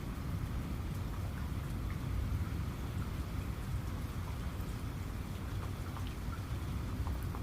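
Steady rain falling, with scattered individual drop ticks over a continuous low rumble.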